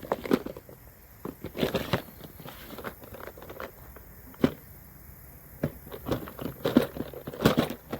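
Fishing tackle being handled and sorted: irregular clicks, knocks and rustling, with a sharper knock about halfway through and a cluster of clicks near the end.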